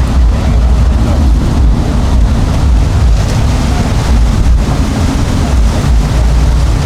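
Motorboat engines running, with wind buffeting the microphone as a heavy low rumble.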